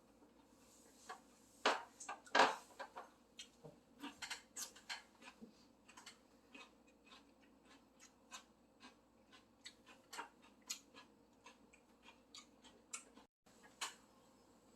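A person eating close to the microphone: irregular small clicks and smacks of chewing and mouth sounds, with a few louder clicks about two seconds in.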